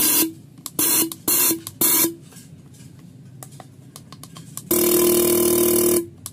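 Fuel injectors on a cleaning and test bench firing: four short pulsed sprays in quick succession, then after a pause a longer burst of more than a second. Each burst is a loud solenoid buzz over the hiss of spraying fuel.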